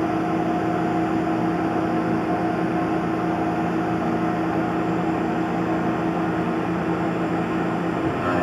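Tormach PCNC 1100 CNC milling machine running and cutting MIC6 cast aluminium plate: a steady machine hum under a dense, rough cutting noise. Near the end the noise eases and the hum turns smoother and more even.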